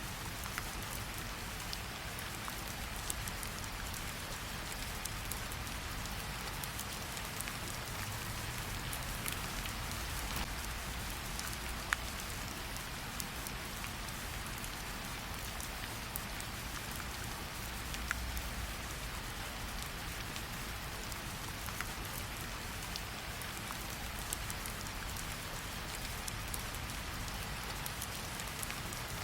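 Steady rain falling, an even hiss with a low rumble underneath. Sharp crackles sound here and there, the loudest about twelve and eighteen seconds in, as from a wood fire burning.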